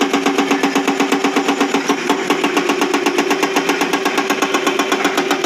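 Battery-powered toy breaker excavator playing its electronic engine-and-hammer sound effect: a steady, rapid rattling pulse of about ten beats a second.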